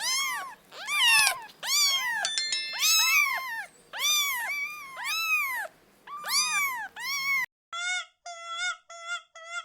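A cat meowing over and over, each meow rising and falling in pitch, for about seven seconds. Then, after an abrupt change, a quicker series of short, even-pitched animal calls.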